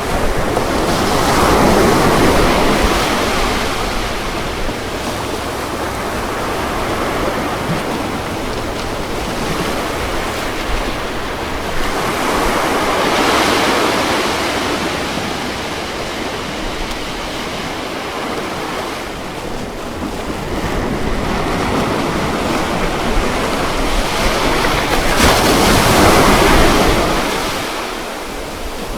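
Ocean waves breaking and washing onto a beach, with the surge swelling three times, about every twelve seconds.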